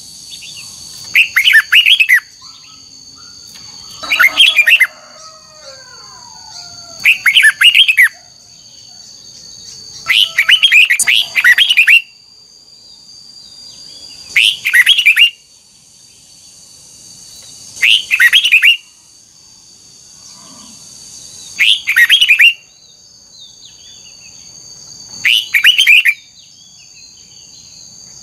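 Red-whiskered bulbul singing, one short loud phrase about every three to four seconds, eight phrases in all, over a steady high-pitched whine.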